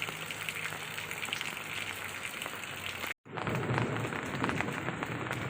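Heavy rain falling in a steady, dense patter. A cut about three seconds in brings a slightly louder stretch of the same rain.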